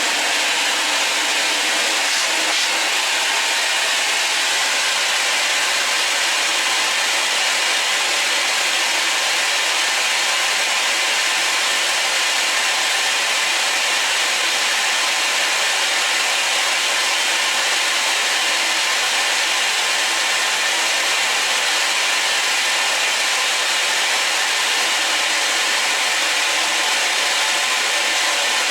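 Vacuum cleaner running steadily with its suction turned down by an opened vent, switching on suddenly at the start.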